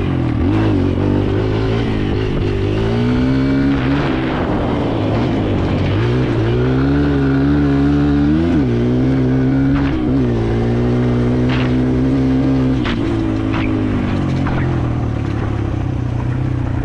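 Kawasaki KLX 140L dirt bike's single-cylinder four-stroke engine running under throttle, its pitch climbing and then dropping several times as it accelerates and changes gear. A few sharp clicks come in the second half.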